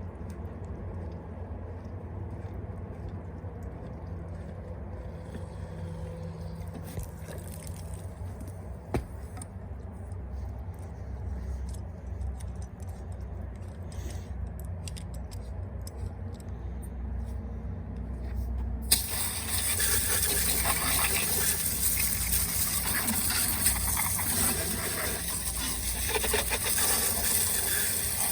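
Steady low hum, then about two-thirds of the way in a garden hose begins spraying water on the lawn mower with a loud, steady hiss that starts abruptly.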